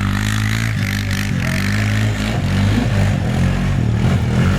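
A 400cc snowmobile engine in a lightweight go-kart running under way, its pitch wavering around the middle before settling back to a steady drone.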